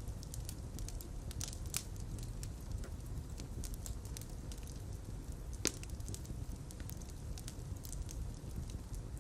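Fire in a fireplace crackling, with frequent small pops over a steady low rumble of flames. One louder pop comes a little past halfway.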